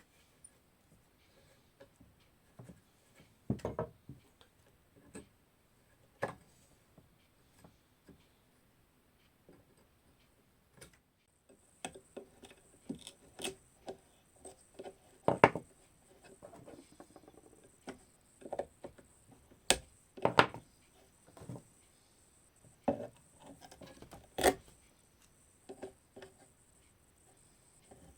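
Hand tools prying old staples and nails out of a wooden chair frame during reupholstering: irregular clicks, knocks and scraping against the wood. The work is sparse at first and gets busier about halfway through.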